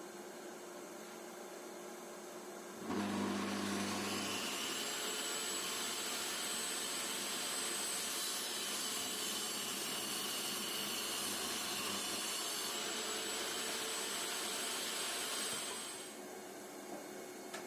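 An electric power tool's motor starting up, running at speed with a high-pitched whine for about 13 seconds, then switching off. It starts about 3 seconds in.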